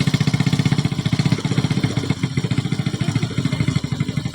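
Small motorcycle engine running at a steady speed, its exhaust pulsing rapidly and evenly.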